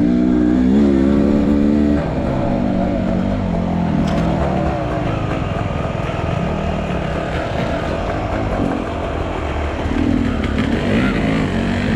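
Off-road enduro motorcycle engine revving, held high for about the first two seconds, then rising and falling again and again through the rest.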